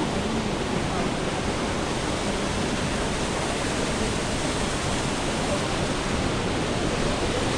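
Steady rush of a waterfall, an even roar of water with no other sound standing out.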